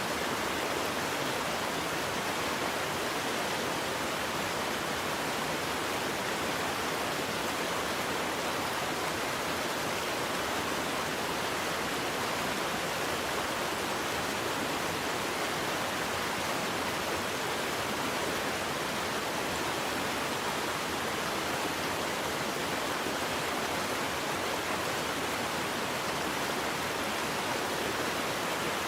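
Waterfall: a steady, even rush of falling water with no change or separate events.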